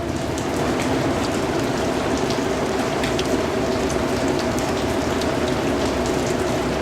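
Steady rain falling: a dense, even hiss with scattered sharp drops striking a surface.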